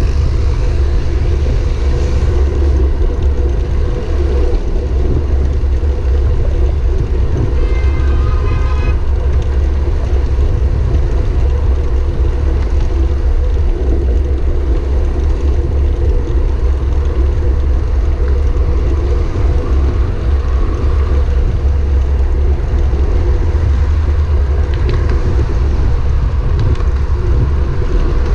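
Loud, steady low rumble of wind buffeting the microphone of a camera on a moving bicycle, with road noise under it. About eight seconds in comes a short, pulsing ringing tone.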